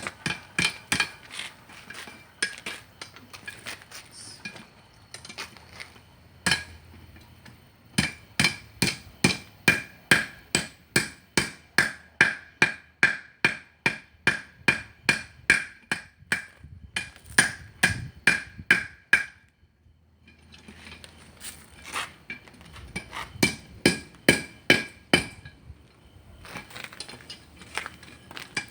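Blacksmith's hammer striking iron on an anvil in a steady run of blows, about three a second, each leaving a bright anvil ring. The hammering pauses briefly about twenty seconds in, then resumes.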